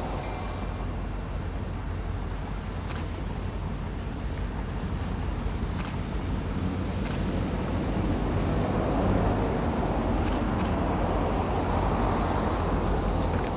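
Low, steady rumble of an approaching diesel-hauled freight train, slowly growing louder, with a few faint sharp clicks.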